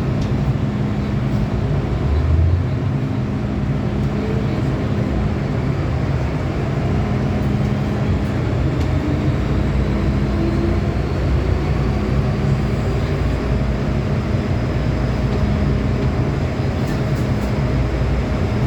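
Hong Kong MTR M-Train electric multiple unit heard from inside the car, running through the tunnel with a steady rumble and a faint whine that rises slowly as the train picks up speed. A short low thump about two seconds in.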